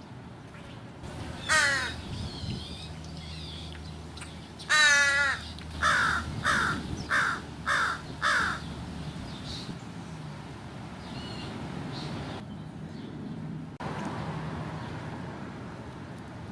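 American crows cawing: one call about a second and a half in, a louder wavering call near five seconds, then a quick run of five short caws.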